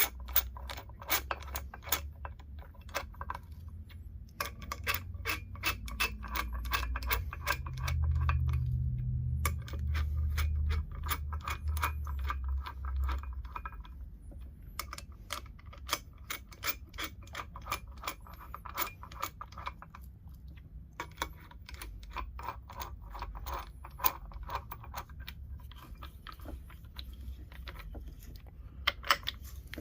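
Hand ratchet clicking in quick runs with short pauses, as 5/8-inch bolts are run down snug.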